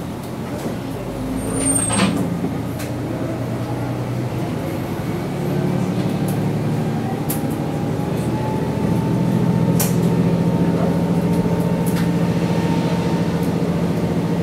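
Sanriku Railway diesel railcar running, heard from inside the car. A steady engine drone grows louder about five seconds in, a faint whine slowly rises in pitch over it, and a few sharp clicks sound.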